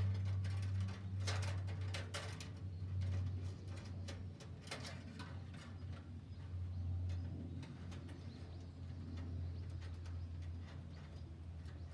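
Firewood burning with irregular crackles and sharp pops over a steady low hum.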